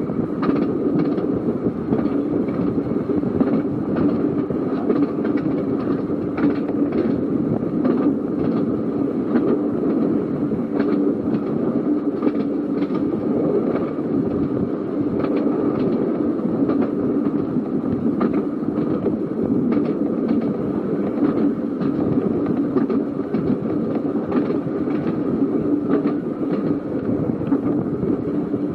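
A Seaton Tramway narrow-gauge tram running along its track: a steady running drone with frequent sharp clicks from the wheels over the rail joints.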